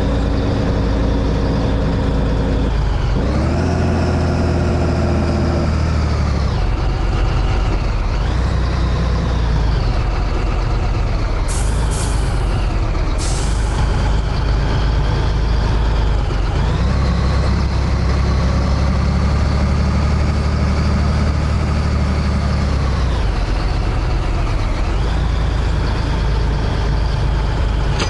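Scania 113H truck's inline-six diesel engine running under load, its speed falling and climbing again several times, as with gear changes. Three short air hisses from the truck's air system come about halfway through.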